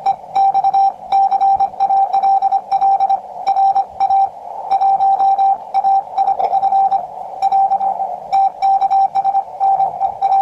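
Morse code (CW) from a QRP Labs QCX-20 shortwave transceiver: a single tone of about 750 Hz keyed in quick dots and dashes, over a narrow band of receiver hiss.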